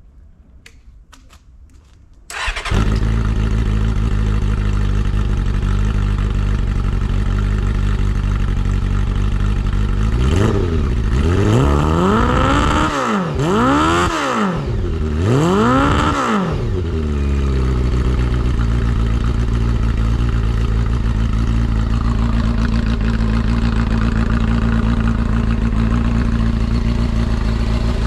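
A few faint clicks, then a Honda CB400SF VTEC Spec1's inline-four engine with a Double R's aftermarket exhaust starts about two seconds in and idles. About ten seconds in it is blipped three times, rising and falling in pitch, then settles back to a steady idle, running smoothly with no abnormal noise.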